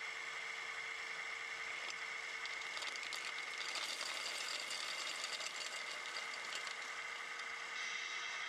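Radio-controlled 1/14 scale model truck running: a steady mechanical whine with a hiss that swells in the middle of the stretch.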